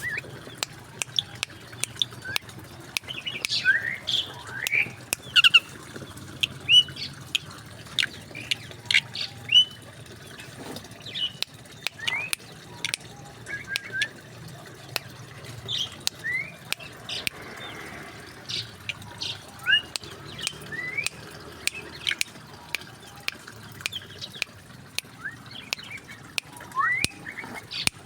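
Mixed birds in an aviary chirping and calling throughout: many short, quick rising calls and sharp clicks overlapping, over a steady low hum.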